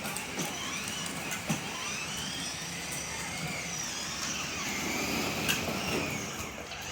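A small motor whirring steadily, with faint wavering high-pitched tones over it.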